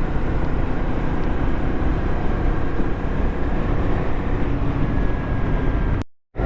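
Motorcycle riding at road speed, with wind rushing over the helmet-mounted camera's microphone and the engine running underneath; the sound drops out briefly near the end.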